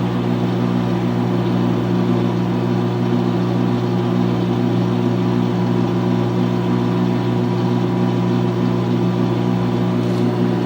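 2006 GE Profile top-loading washing machine spinning its load, a steady hum made of several low tones that holds even in loudness.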